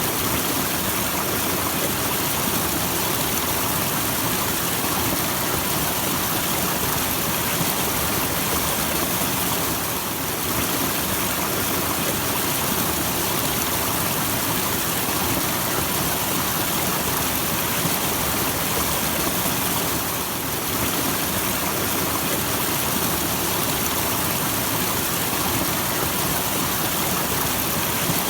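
Small waterfall: falling water in a steady, even rush, with a slight brief dip in level about ten seconds in and again about twenty seconds in.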